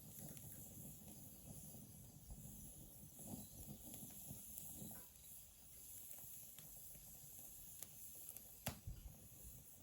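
Faint steady high insect chirring, with a few scattered sharp clicks, the loudest near the end.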